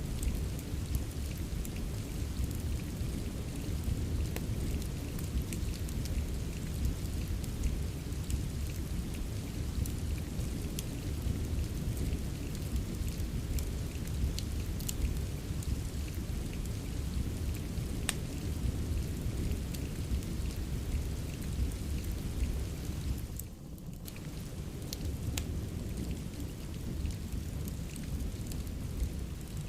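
Steady rain with a low rumble underneath and scattered sharp crackles of a wood fire, in a rain-and-fireplace ambience mix. About two-thirds of the way through, the sound briefly drops away, then carries on slightly quieter.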